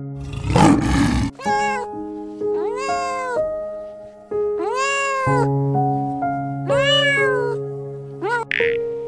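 A short rough roar-like burst at the start, then four or five meow-like animal calls, each rising and then falling in pitch, over background music with sustained notes.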